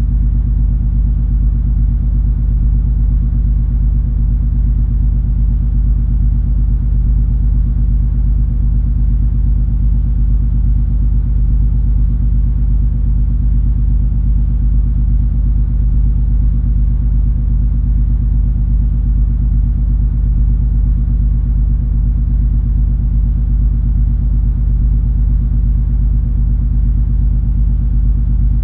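Steady deep drone of the MS Color Fantasy cruise ferry's engines and machinery under way, an even rumble with several low steady hum tones and no change in pitch or level.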